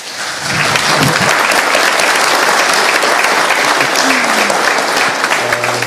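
Audience applauding: a dense, steady wash of clapping that builds quickly and dies away near the end.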